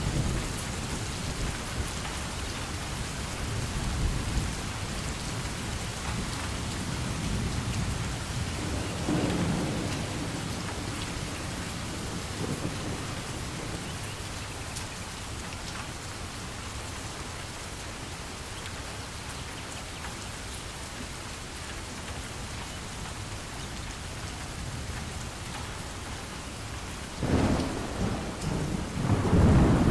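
Steady heavy rain falling, with rolling thunder rumbling about nine seconds in and again, louder, near the end.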